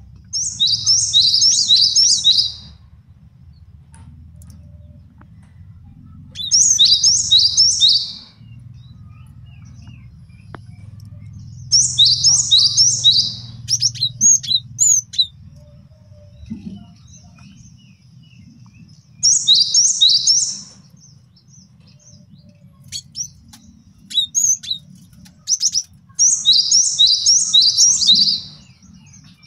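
Male cinereous tit (gelatik batu) singing: five bouts of fast, repeated high two-note phrases, each lasting about two seconds and coming roughly every six seconds, with a few scattered single high notes between bouts. A faint low hum lies underneath.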